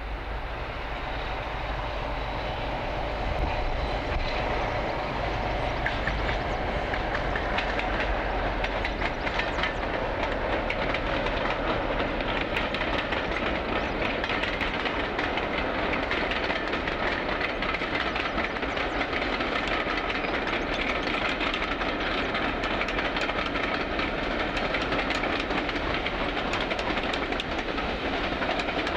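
Diesel-hauled passenger train passing, the locomotive's engine running steadily under the rumble of the coaches, with wheels clicking over the rail joints. It grows louder over the first few seconds as the train draws near, then holds steady.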